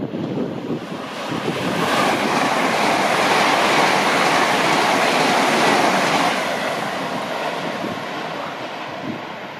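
LNER Azuma high-speed train passing at speed: a rush of wheel and air noise that swells over the first two seconds, stays loud for about four, then fades as the train draws away.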